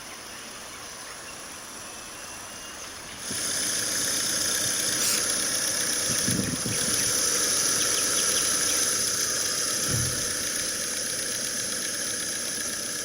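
Vehicle noise: a steady hiss that steps up sharply about three seconds in, with two brief low thumps later on.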